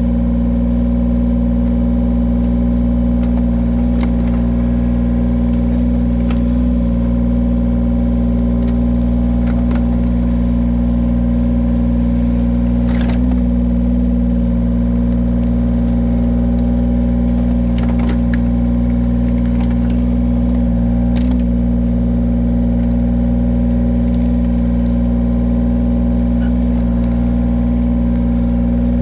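Engine of a firewood-splitting machine running steadily at a constant speed, with a few faint sharp knocks and cracks now and then as wood is split.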